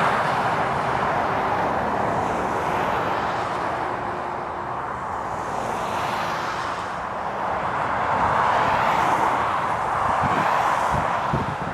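Heavy trucks passing on a wet road: a steady rush of tyres through spray with engine drone that swells and fades as they go by. Near the end, wind buffets the microphone in low thumps.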